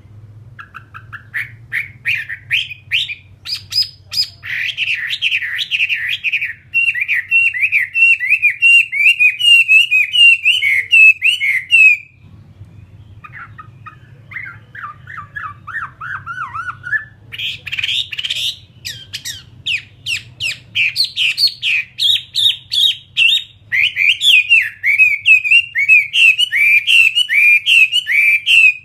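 Chinese hwamei (Vietnamese họa mi) singing a long, loud run of rapid, varied whistled notes that sweep up and down. The song breaks off briefly about twelve seconds in, turns softer and lower for a few seconds, then comes back loud.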